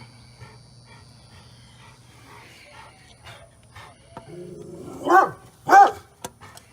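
A dog barking near the end: a lower call leads straight into two loud, sharp barks about half a second apart.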